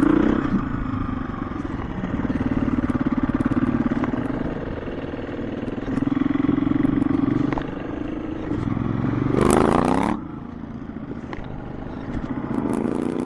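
KTM EXC-F 350 single-cylinder four-stroke dirt bike engine running while riding off-road, the revs rising and falling with the throttle. About nine and a half seconds in it revs up steeply, then drops off sharply, with another rise near the end.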